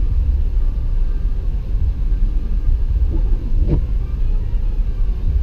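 Steady low rumble inside a car's cabin as it drives on a snow-covered road, the engine and tyres making a constant drone. One brief higher sound rises over it a little past the middle.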